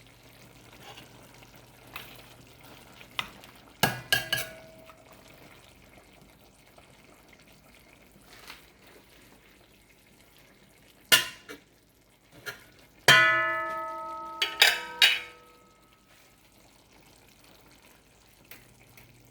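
Metal cookware clanking a few times over a faint steady sizzle of food cooking in a pot. A clink about 4 s in, a knock around 11 s, then the loudest strike about 13 s in rings with a clear metallic tone for over a second, followed by a couple more ringing clangs.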